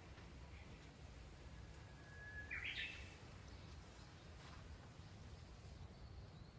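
A single short bird call about two and a half seconds in, over a faint steady low background hum.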